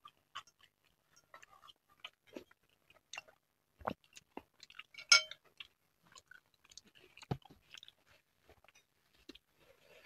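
Close-miked mouth sounds of chewing, with scattered small wet clicks and crunches. About five seconds in there is one sharp clink as a plastic spoon and fork are set down on a glass bowl.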